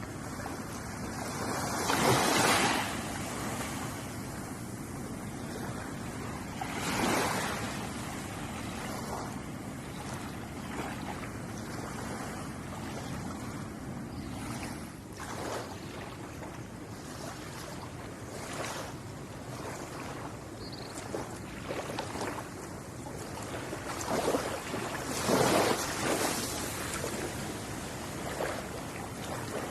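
Ocean waves washing onto a shore: a steady wash of surf, with louder breakers surging in about 2 seconds, 7 seconds and 25 seconds in, and smaller ones between.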